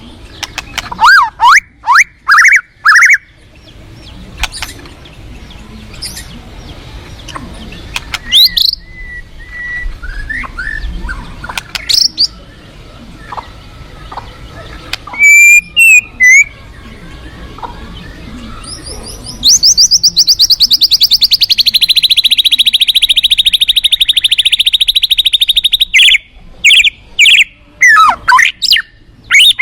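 White-rumped shama (murai batu) singing: loud, varied whistles and sweeping notes, then a long, very fast rattling trill for several seconds about two-thirds of the way through, followed by more whistles.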